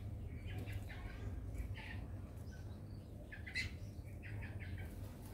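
Short, high bird chirps in small clusters, several times, over a steady low hum.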